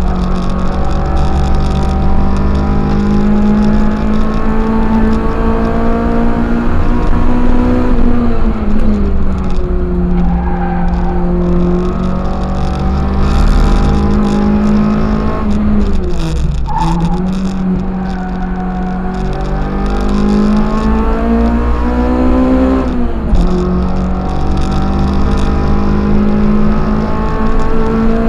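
Toyota 4A-GE twin-cam four-cylinder engine in a KE25 Corolla, heard from inside the cabin, run hard on a race track. The pitch climbs steadily and drops sharply at gear changes about eight and twenty-three seconds in. Around the middle it dips briefly and recovers as the car slows for a corner.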